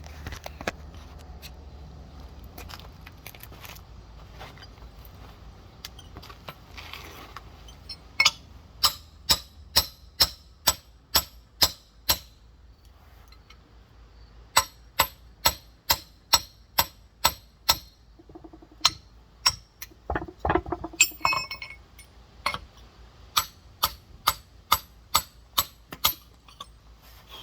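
Rock hammer tapping on a large geode in runs of sharp, clinking strikes, about two or three a second, with short pauses between runs. A heavier, duller knock comes about two-thirds of the way through.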